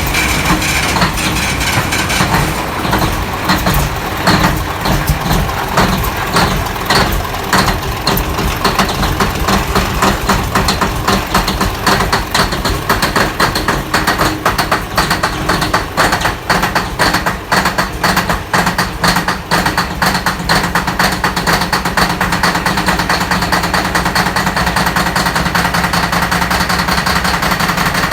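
Caterpillar C32 twin-turbo V12 diesel generator engine running just after a cold start, loud and ragged with uneven pulses at first, settling into a steadier, more even run after about twenty seconds.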